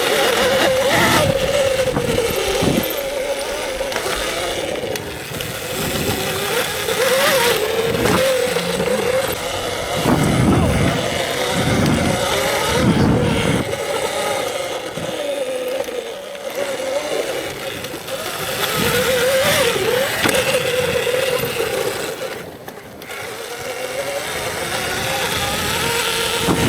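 Electric dirt bike's motor whining while riding a trail, its pitch wavering up and down with the throttle, over a steady rush of noise, with a few low thumps around the middle.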